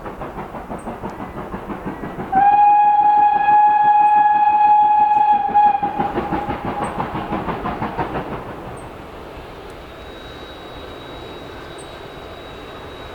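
Steam locomotive approaching with a regular rhythmic beat, then sounding one long steady whistle blast about two seconds in that lasts roughly three and a half seconds; afterwards the rhythmic beat fades away.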